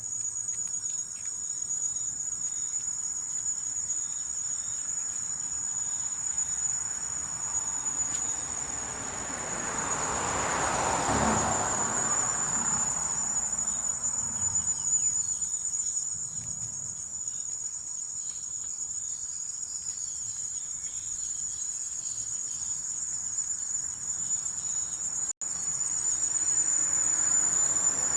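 Insects trilling steadily in a continuous high-pitched chorus. A broad rush of noise swells and fades about ten seconds in, and the sound cuts out for a split second near the end.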